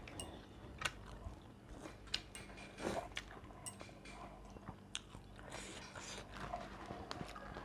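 A person chewing and biting food close to the microphone, with irregular crunchy bites and small wet clicks.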